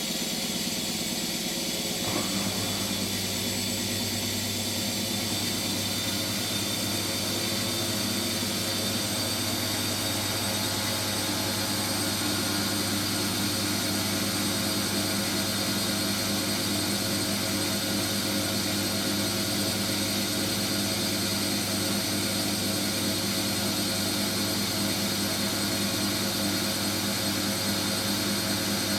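Hotpoint Extra WMXTF742K washing machine spinning at speed: a steady motor whine over a drum hum, with the low hum stepping up about two seconds in.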